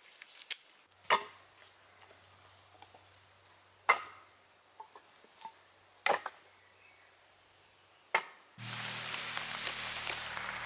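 Four chopping strikes of an axe into wood, about two seconds apart. Near the end, a louder steady noise with a low hum cuts in suddenly.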